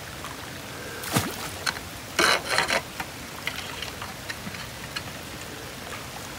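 Steady hiss of rain and water running through a cleared drainage ditch, with a few sharp knocks and scrapes, the loudest cluster about two seconds in.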